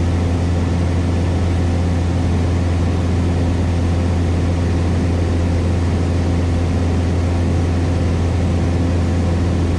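Cessna 172S Skyhawk's four-cylinder Lycoming engine and propeller droning steadily in cruise flight, a constant low hum with no change in pitch or loudness.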